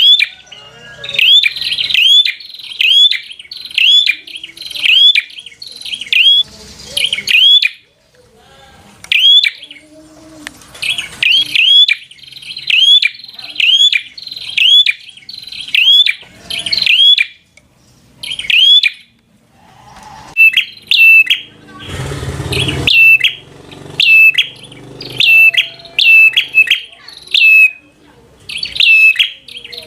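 Prinia (prenjak) singing: loud runs of sharp, repeated chirps, several a second, broken by short pauses. About two-thirds of the way through there is a brief, muffled rustling noise.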